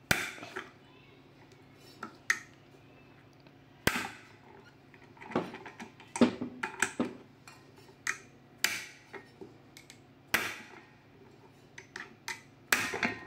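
Irregular clicks and knocks of the disassembled Kärcher WD 3 vacuum motor assembly being handled, a dozen or so scattered at uneven intervals. The parts are being gripped and twisted by hand to unscrew the tightly threaded housing from the motor shaft.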